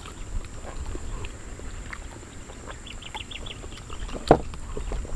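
Outdoor ambience with wind rumbling on the microphone, a bird's quick run of short chirps about three seconds in, and a single sharp click about four seconds in.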